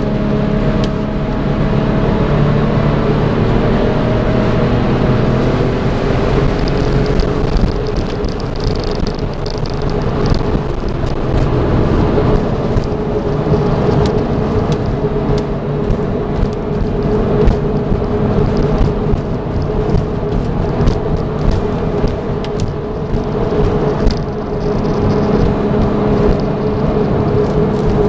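A 2002 Porsche 911 Turbo's twin-turbo flat-six engine heard from inside the car while it is driven, mixed with road and wind noise. The engine's pitch shifts during the first few seconds and then holds steady, and a thin high whine comes in twice, about a third of the way in and again near the end.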